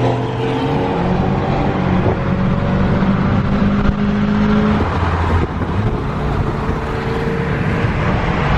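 Car engine running under throttle, its pitch climbing over the first few seconds and dropping back about five seconds in, then holding steady.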